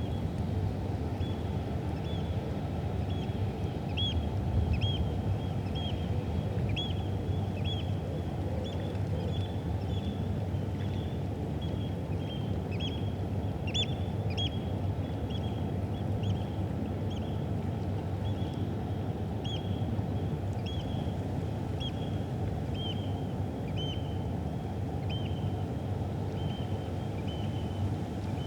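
A bird calling over and over in short, high chirps, one or two a second, over a steady low rumble of river and city background.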